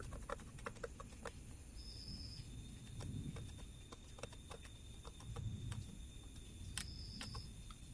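Faint, irregular small clicks and scratches of a hand tool scraping debris and corrosion out of a water-damaged earbud. Two brief high tones occur, about two seconds in and near the end.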